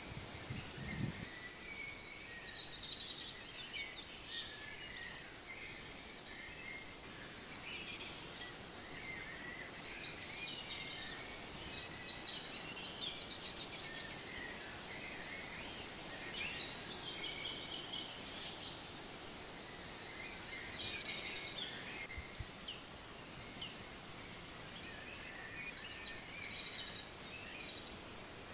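Several songbirds singing and chirping at once, short varied calls overlapping, over a faint steady outdoor background.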